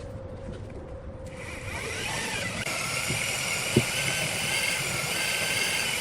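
Electric power tool starting up about a second in and running steadily at high speed, with a single short knock partway through.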